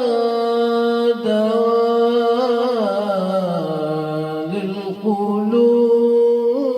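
A man sings a religious praise song (madih) solo, holding long ornamented notes that sink lower through the middle and climb again. Near the end he comes onto the word "dawa'" ("remedy").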